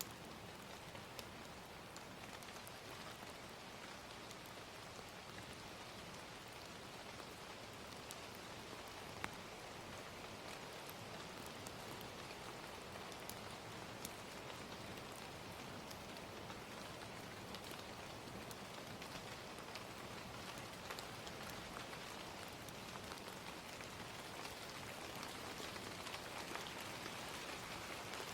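Gentle rain falling steadily, with scattered faint sharp crackles of a fire.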